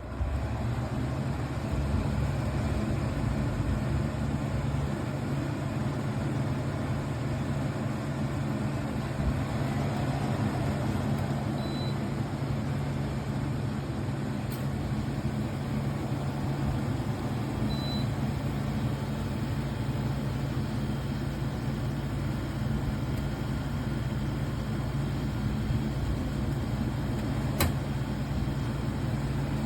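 Amazon Basics 13,500 BTU portable air conditioner running with a steady hum and airy whoosh. Two short high beeps come about twelve seconds in and again six seconds later.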